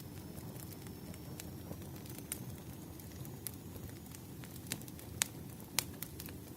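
Bonfire crackling: a steady low rush of burning with irregular sharp pops and snaps, a few louder ones about five to six seconds in.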